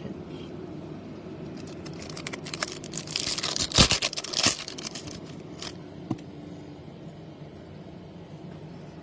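A foil trading-card pack wrapper being crinkled and torn open: a quick run of crackles and rips about two to five seconds in, loudest near the middle, followed by a couple of light clicks.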